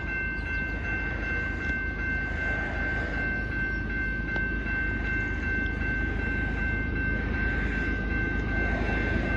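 Approaching CP freight train led by ES44AC locomotive 8877, heard from a distance: a low rumble with a steady high-pitched ringing tone over it, slowly growing louder.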